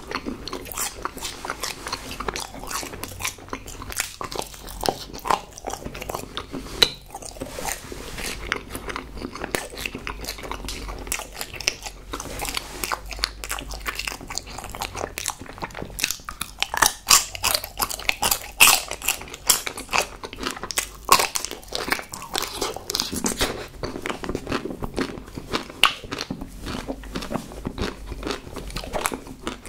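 A person chewing and biting chocolate-coated marshmallow and chocolates close to the microphone: a steady run of short, sticky mouth clicks and crunches, busier and louder a little past the middle.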